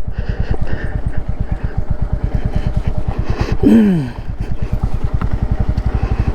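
Royal Enfield Classic 350's single-cylinder engine thumping steadily in first gear, pulling the bike up a steep climb. Just past halfway there is a short vocal sound that falls in pitch.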